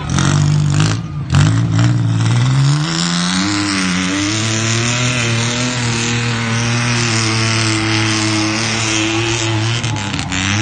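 Truck engine revving hard: it climbs and drops back twice in the first few seconds, then is held at high revs and runs steadily, with a couple of sharp knocks near the end.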